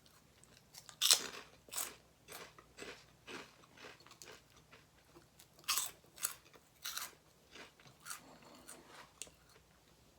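Close-up crunching and chewing of crisp food: a person bites and chews with sharp, irregular crunches, the loudest about a second in and again around six to seven seconds in.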